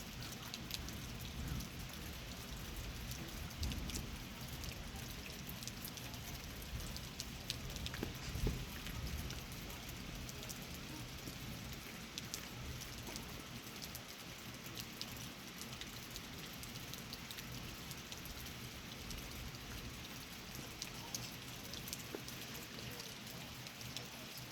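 Steady rain falling during a thunderstorm, with many separate drop hits ticking through the hiss of the rain.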